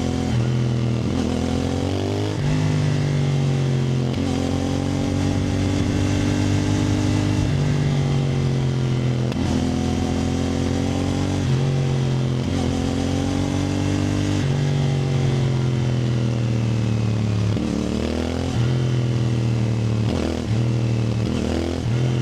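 CFMoto 450NK's parallel-twin engine under way, its pitch rising with the revs and dropping back at each gear change, over and over. Near the end it gives several quick short rises in revs.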